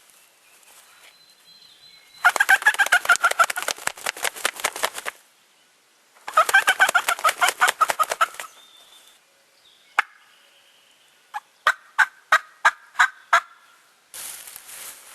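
Wild turkey gobbler gobbling twice, each a long run of rapid notes. A sharp click follows, then a series of about seven short, evenly spaced yelps.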